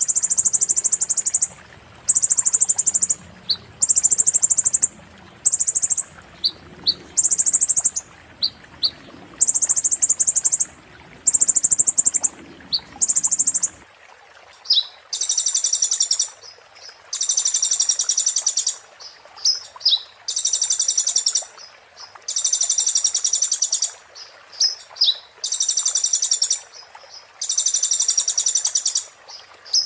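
Konin songbird singing in repeated rapid, sharp, high-pitched phrases, each about a second long with short pauses and a few single chips between them.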